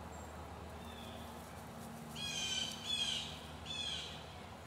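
A bird calling three times in quick succession, short, pitched calls with a harsh edge, after a fainter call about a second earlier.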